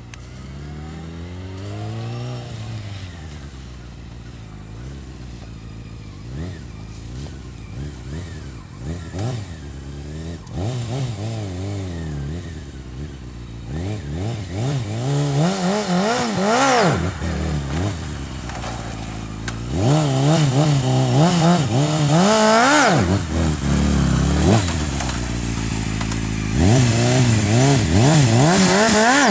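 Honda CBR600F4i's inline-four engine revved again and again, each rev rising and falling in pitch. It grows louder from about halfway through as the bike comes near.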